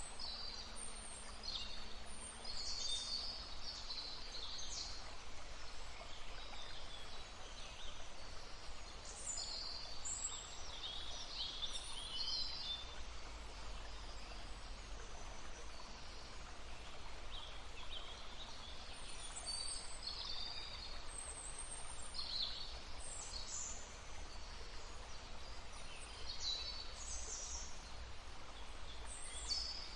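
Songbirds singing, with many short high chirps and trills scattered throughout, over the soft, even murmur of a stream.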